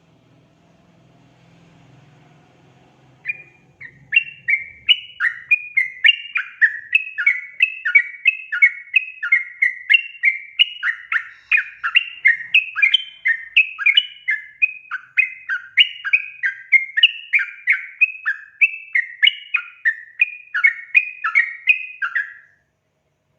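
Yellow-vented bulbul (trucukan) calling in a fast, chattering run of bubbling notes, about three a second. It starts about three seconds in and cuts off abruptly near the end.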